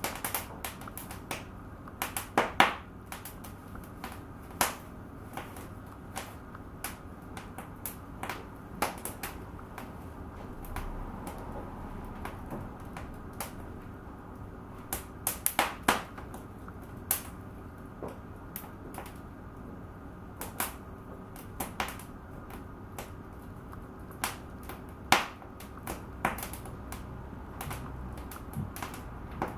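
Wood fire in a fireplace crackling, with irregular sharp pops and snaps over a steady low hiss of the flames; a few pops stand out louder than the rest.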